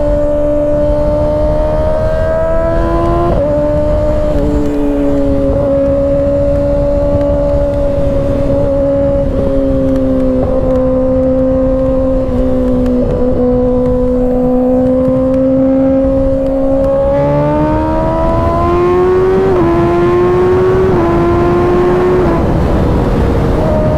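Kawasaki ZX-6R 636 inline-four engine under way, holding a fairly steady cruising pitch with a few quick steps in engine speed, then climbing as it accelerates about two thirds of the way through. Wind rushes over the microphone throughout.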